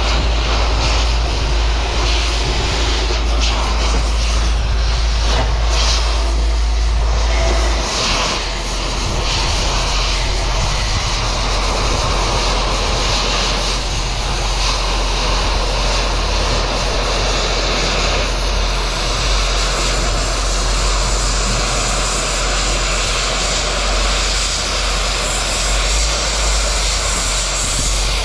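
Loud, steady drone of running machinery over a deep low hum. The hum drops in level about eight seconds in, and the drone carries on unchanged otherwise.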